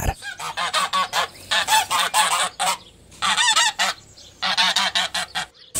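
Domestic goose honking: quick runs of honks in about four bursts, with short gaps between.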